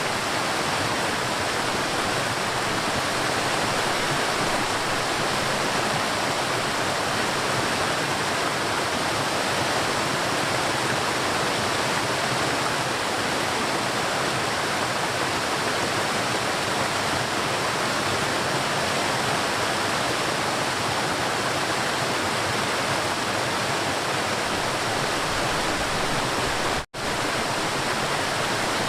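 River water rushing steadily, an even, continuous flow with no pauses, broken only by a split-second dropout in the sound near the end.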